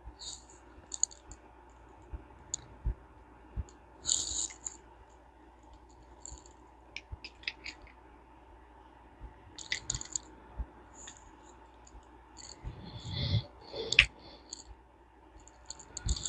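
Irregular clicks and light metallic clinks from a Ted Williams 540 push-button fishing reel and its small parts being handled and fitted, with a short rattle about thirteen seconds in.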